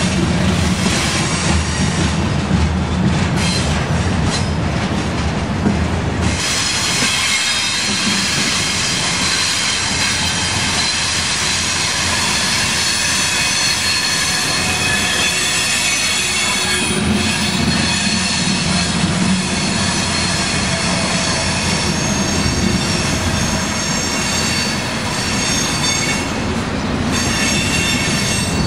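Loaded steel coil cars of a freight train rolling past close by: a low rumble of wheels on rail under several steady, high-pitched wheel squeals. About six seconds in the rumble drops back and the squealing stands out more clearly.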